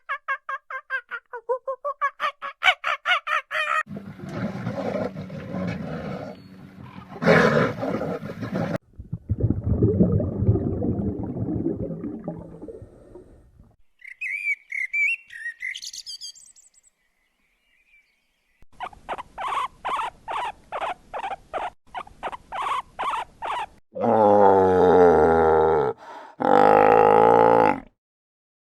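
A string of different animal calls, one clip after another: rough grunts and a roar, then high bird chirps, then a fast, even run of repeated calls, and two long calls near the end.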